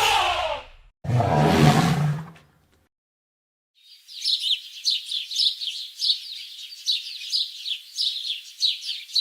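Small birds chirping, many quick high chirps in a steady stream for the last six seconds. Before them, two short, separate animal calls: a falling call at the very start, then a rougher call lasting about a second and a half.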